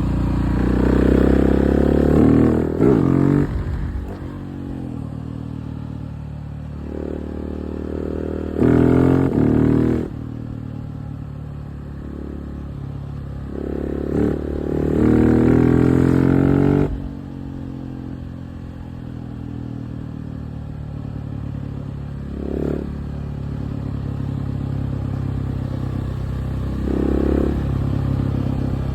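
KTM 690 SMC R's single-cylinder engine under way, pulling hard three times with the pitch rising through each gear before the throttle shuts, with lower, steadier running in between. Two short throttle blips come later on.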